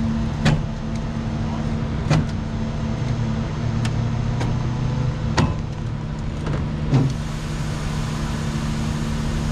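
A motor vehicle engine running steadily with a low, even hum, broken by sharp clicks or knocks every second or two.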